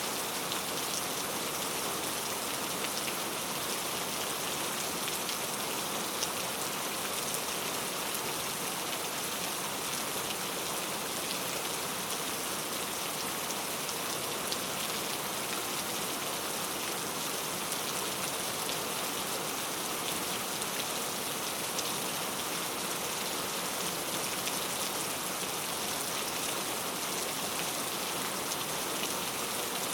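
Steady rain falling on a surface, an even hiss with many small, crisp drop ticks scattered through it.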